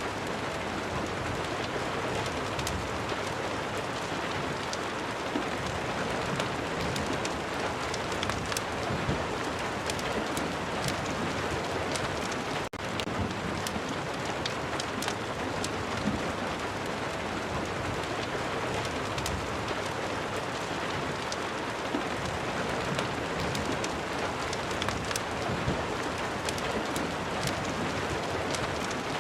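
Steady heavy rain, a dense even hiss scattered with many sharp ticks, with a momentary dip in level a little before halfway.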